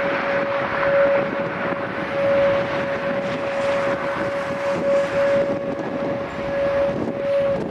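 Outdoor tornado warning siren holding one steady tone over a steady rushing noise.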